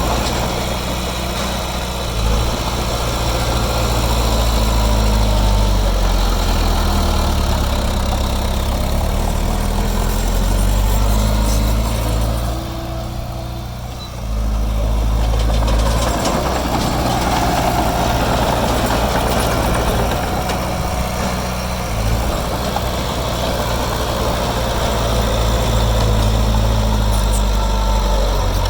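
Heavy diesel engine of earthmoving machinery running, its pitch rising and falling as the load changes. It eases off briefly around halfway, then picks up again.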